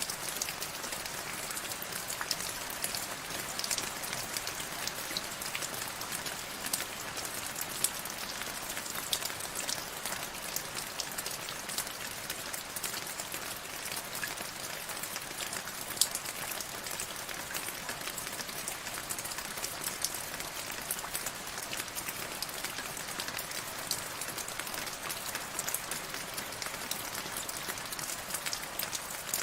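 Steady rain falling on a surface, a continuous hiss packed with the ticks of individual drops, one sharper drop about halfway through.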